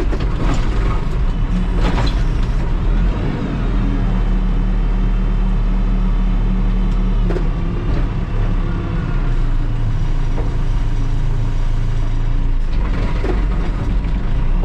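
Terex TLB-815 backhoe loader's diesel engine running steadily at working revs, with a few sharp knocks and clanks of the machine at work.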